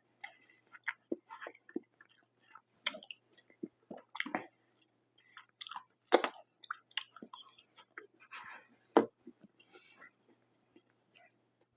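A person chewing food close to the microphone: an irregular run of short mouth clicks and crunches, the loudest about six and nine seconds in.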